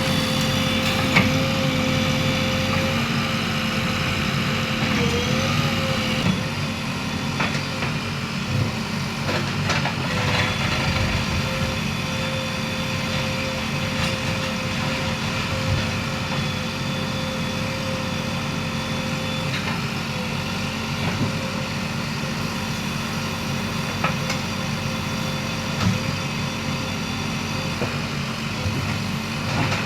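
JCB 3DX backhoe loader's diesel engine running steadily, with a held whine and a few faint knocks.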